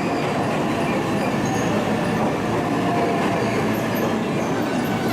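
Electric train running into the station platform, with a steady rumble of wheels on the rails and faint high wheel or brake squeals that grow toward the end.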